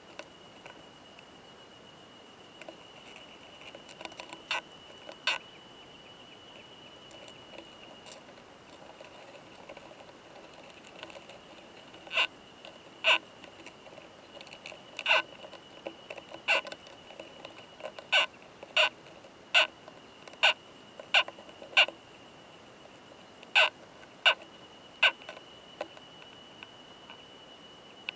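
Male オオマダラコクヌスト beetle (a trogossitid bark beetle) making its sharp, intense 'kan kan kan' sound during mating: two short raps, then a run of about a dozen spaced roughly half a second to a second apart, with a faint steady high tone underneath.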